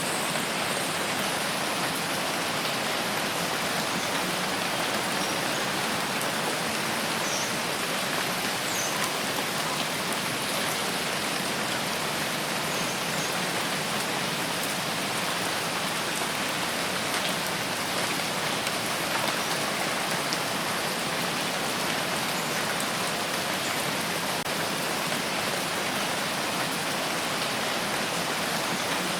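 Steady rain falling, an even hiss of many drops with occasional faint drop ticks.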